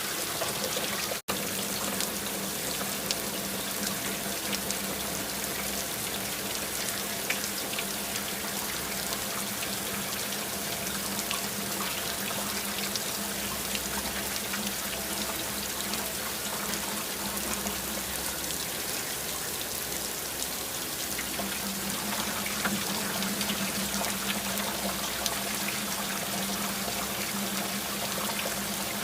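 Steady rain: an even hiss of falling water scattered with small drop ticks, with a low steady hum under it. The sound cuts out for an instant about a second in.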